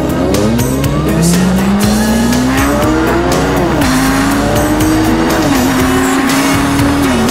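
Motorcycle engine pulling away: its pitch rises steadily for the first few seconds, then drops in steps about four, five and a half and seven seconds in as it changes gear. Music with a beat plays alongside.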